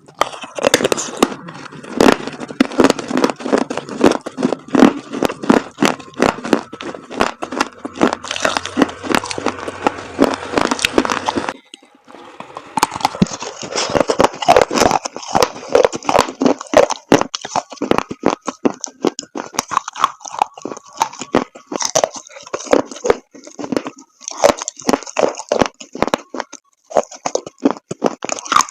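Chalk paste being crunched: a dense run of crisp, rapid crackles and snaps. The sound dips briefly about twelve seconds in, then carries on brighter and sharper.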